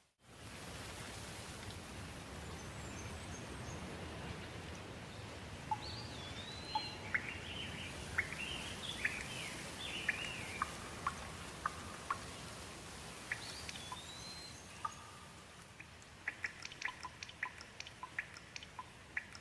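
Steady rain hiss with birds singing over it: whistled, gliding calls and short chirps, then a run of quick sharp ticks near the end. The sound drops out for a split second at the very start.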